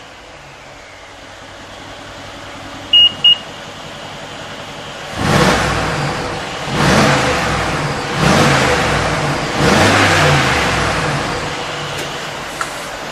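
Mercedes G63 Brabus twin-turbo V8 exhaust idling, then blipped four times, each rev rising sharply and dying back to idle. Two short electronic beeps sound about three seconds in.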